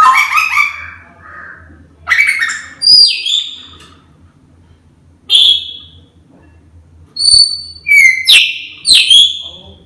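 A grey parrot gives a series of short whistles and calls, some rising or falling in pitch, with pauses between them and three in quick succession near the end.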